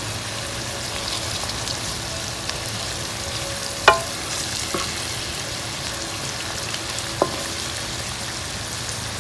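Hilsa fish pieces, onions and chilies sizzling steadily in oil in a pan while a wooden spatula stirs them, knocking sharply against the pan about four seconds in and again more lightly near seven seconds.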